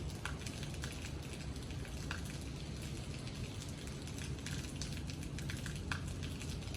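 Steady rain falling, with scattered drops ticking on a nearby surface over a low, constant rumble.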